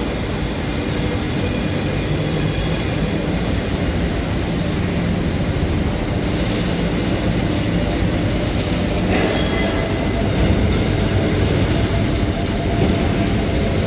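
Steady, loud machinery noise, like a heavy engine running, with a few faint steady tones over it.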